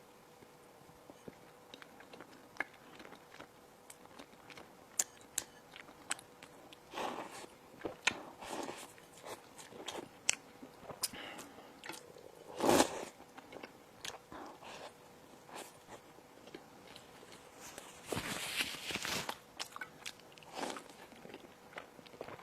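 Close-miked eating: a person biting into and chewing crispy bread and fillings, with scattered sharp crunches and mouth clicks and a few louder bursts of crunching, the loudest about halfway through.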